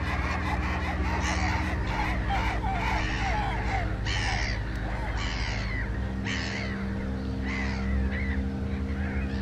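Harsh bird calls repeating about once a second over a steady low drone.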